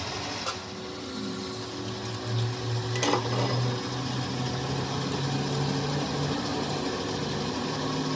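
A machine running with a steady low hum that shifts slightly in pitch, with a few sharp knocks, the clearest about three seconds in.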